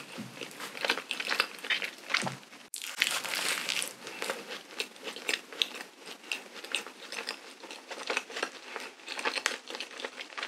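Close-miked chewing of a sugar-dusted cream-filled donut: a dense run of small crackling clicks and mouth sounds, breaking off for an instant a little under three seconds in.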